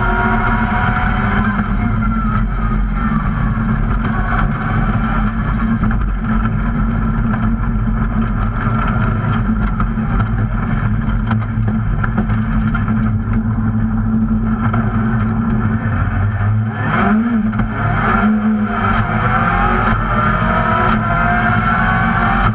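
Rally car's engine heard from inside the cabin under hard driving, its revs rising and falling as it goes through the gears. About sixteen seconds in the engine note drops briefly, then climbs again, with a few sharp clicks over the next few seconds.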